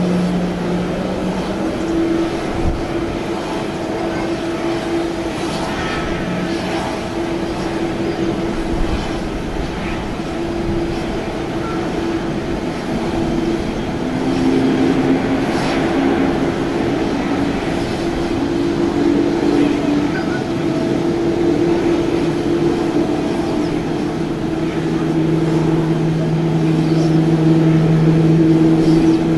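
Boeing 787 jet airliner and ground equipment during pushback: a loud, steady mechanical drone with several held tones. The lowest tone drops out about two seconds in and returns near the end, and another briefly shifts pitch midway.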